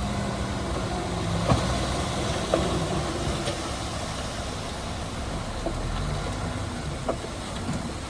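Shantui DH17C2 crawler bulldozer's diesel engine running steadily, with a few sharp metallic clanks over it, the first about a second and a half in.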